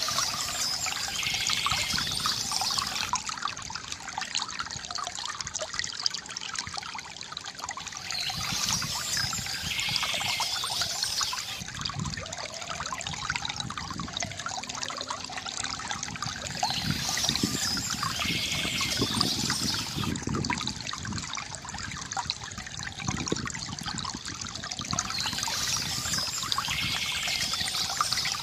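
Small stream trickling and splashing steadily, with bird song coming in four times, about every eight and a half seconds.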